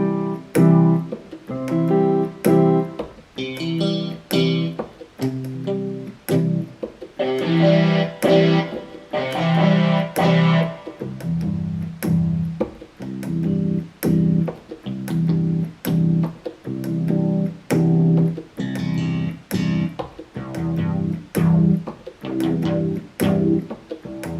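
Yamaha PSR-350 portable keyboard playing single notes on the same low C, about one a second, each few notes in a different preset voice, among them guitar-, bass- and piano-like sounds.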